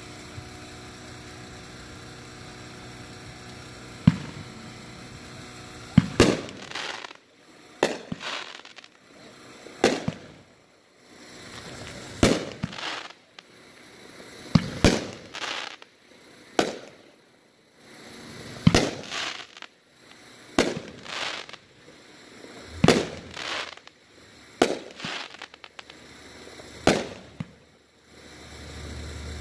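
Consumer multi-shot firework cake firing aerial shots one after another, about one every one and a half to two seconds, each a sharp bang with a trailing echo. It begins about six seconds in, after a steady low hum and a single sharp crack.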